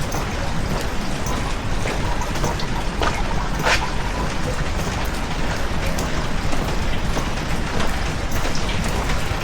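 Heavy rain falling steadily, with a low rumble underneath and scattered sharper drop taps, one louder tap about three and a half seconds in.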